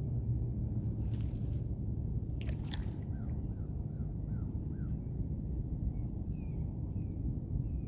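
Birds chirping over a steady low rumble. About five short falling chirps come in quick succession in the middle, then higher chirps near the end, with a thin steady high tone behind them and a couple of sharp clicks about a third of the way in.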